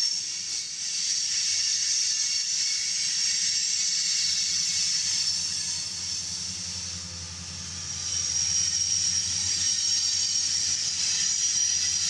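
Freight train passing close by: loaded coal cars rolling over the rails with a steady high hiss, then BNSF diesel locomotives going by with a low engine drone that grows stronger about halfway through and fades near the end.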